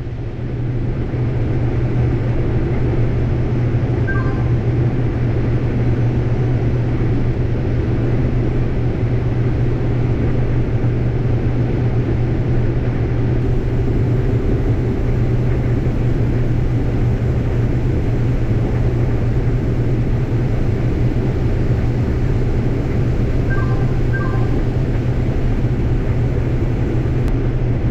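Combine harvester running steadily under load while harvesting corn, heard from inside the cab as an even low drone. A few faint short tones sound about four seconds in and twice near the end.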